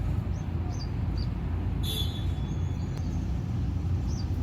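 Steady low outdoor rumble of city traffic, with small birds chirping in short high calls throughout and one louder, buzzier call about two seconds in.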